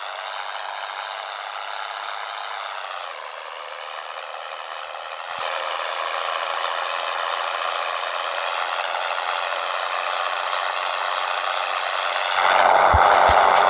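Scania 113 truck running with a steady engine drone and some rattle. The drone drops about three seconds in, picks up again a little over five seconds in, and grows louder near the end with a few knocks.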